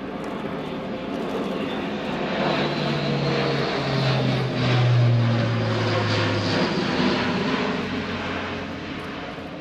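Airbus A400M Atlas with its four TP400 turboprop engines passing by. Loudest about halfway through, the low propeller hum drops in pitch as it goes past, then the sound fades away.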